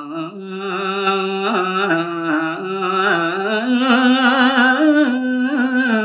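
A solo male voice singing a line of Balinese tembang (pupuh Sinom) unaccompanied, in long held notes with wavering ornaments that slide from pitch to pitch.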